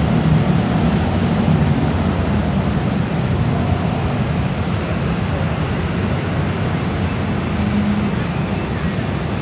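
Heavy rush-hour motorbike and scooter traffic: many small engines running together in a steady, loud mass of street noise.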